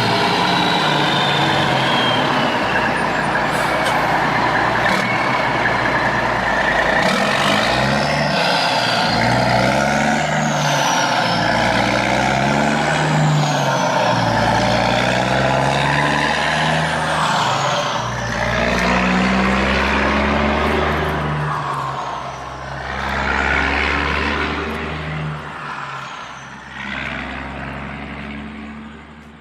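A heavy vehicle's engine running under load, its pitch rising and falling repeatedly, then dying away near the end.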